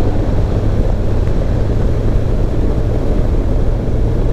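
Moving road vehicle: steady engine and road noise with a strong low hum.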